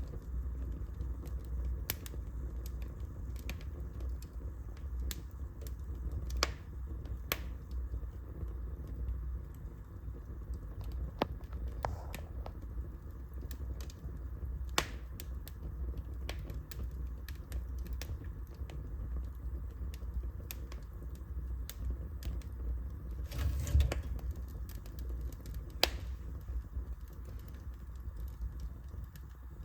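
Fire burning in a fireplace, crackling and popping irregularly over a low steady rumble, with a louder cluster of pops about three quarters of the way through.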